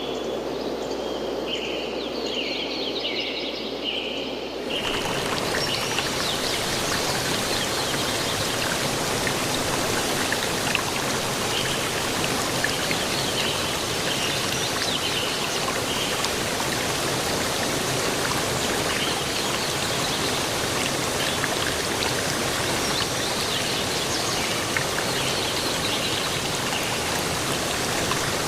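Waterfall water rushing in a steady, even stream. For the first few seconds insects chirp over a softer water sound; at about five seconds it cuts abruptly to the louder, full rush of the falls.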